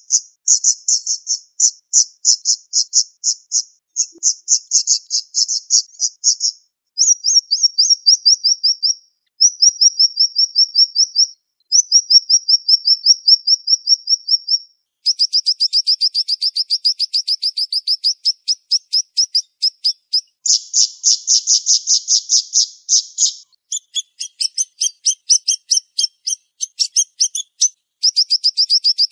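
Siri-siri songbird singing rapid, high-pitched trills in a string of bursts a second or more long, some phrases sliding down in pitch. About halfway through the trills turn faster and denser and run on with barely a pause.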